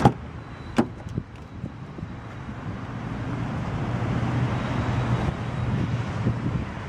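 A sharp thump, a smaller knock just under a second later, then a steady low rumble that slowly grows louder.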